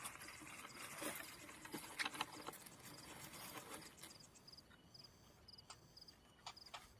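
Faint insect chirping, short high pulses repeating about twice a second, with scattered sharp clicks.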